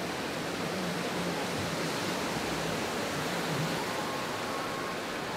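Ocean surf breaking and washing in, a steady rush of noise.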